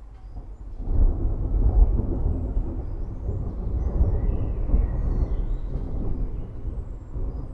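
Rolling thunder: a low rumble swells up about a second in and keeps rumbling, loud and deep, for the rest of the stretch.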